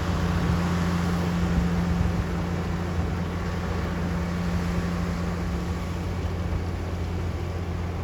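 Heavy snow-removal machinery engine running at a steady pitch, with a steady rushing hiss over it; the sound eases slightly after about two seconds.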